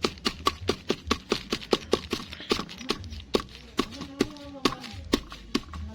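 Rapid, even knocking, about five strikes a second, as bird feed pellets are pounded and crushed fine. A brief pitched call or voice sounds in the middle.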